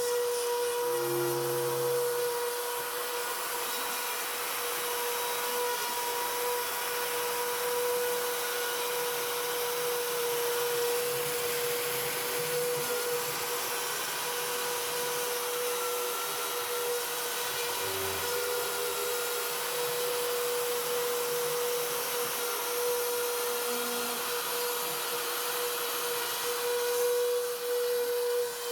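An electric motor running steadily with a constant hum, under a few faint knocks.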